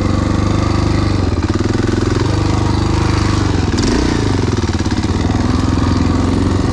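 Off-road motorcycle engine running under way at a fairly steady pace, its pitch dipping and rising slightly about four seconds in.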